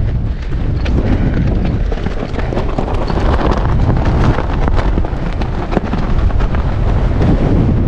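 Strong wind buffeting a GoPro's microphone: a loud, continuous low rumble heaviest in the bass. Many sharp clicks and rattles run through it.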